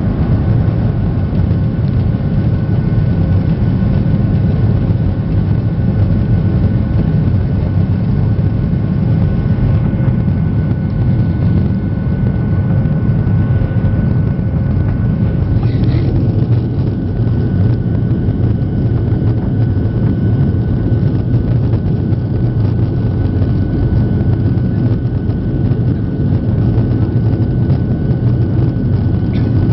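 Boeing 737-800 jet engines running steadily during takeoff: a constant, even rumble with a faint steady whine over it.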